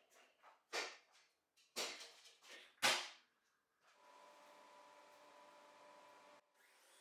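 Three sharp knocks about a second apart, then a faint steady hum that cuts off suddenly.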